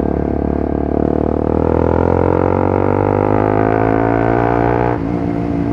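Bajaj Pulsar NS 200's single-cylinder engine through a straight-through Akrapovic exhaust, pulling hard with its note rising steadily, then dropping suddenly about five seconds in as the throttle is closed or a gear is changed.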